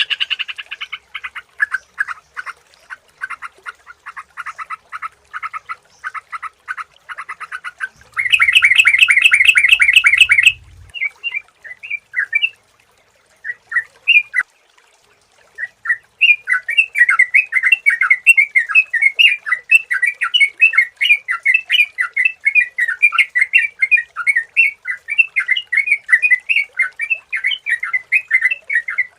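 Trucukan (yellow-vented bulbul) calls. It opens with a fast chattering series, then gives a loud harsh buzzy burst about eight seconds in. After a few scattered chirps and a short pause, it goes into a continuous run of bubbly, quick-fire chirps.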